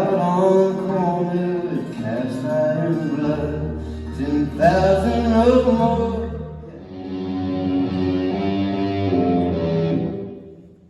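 Rock band sound-checking: electric guitar and bass guitar playing ringing chords through the PA, with a deep bass note in the middle stretch. The playing stops and dies away near the end.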